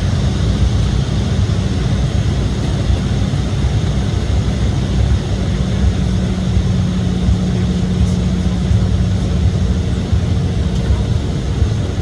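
Steady cabin drone of an Embraer E175 jet heard from a window seat: the low noise of its CF34 turbofan engines and airflow, with a steady hum that grows a little stronger about halfway through.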